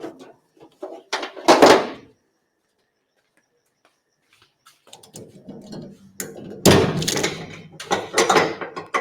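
Ratchet tie-down straps being undone: metal buckles clanking and straps rattling, with a loud clatter about a second and a half in, then a longer run of clanks and knocks from about five seconds in.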